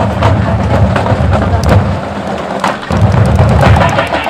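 Marching band playing, with drums and other percussion prominent.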